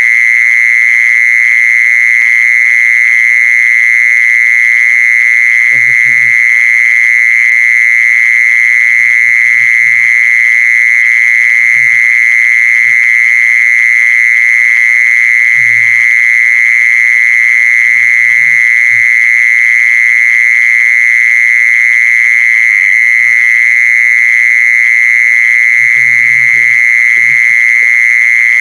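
An insect singing one continuous high-pitched trill, steady and unbroken at a single pitch. Faint low knocks or murmurs come through behind it a few times.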